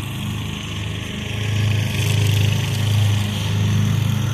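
Craftsman riding lawn mower engine running steadily under mowing load with a low hum, growing louder about a second and a half in as the mower draws closer.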